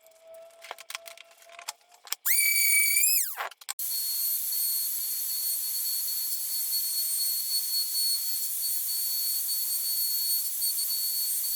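A small power tool whines briefly at a steady high pitch and winds down about three seconds in, then a steady high-pitched hissing whine starts up and runs on.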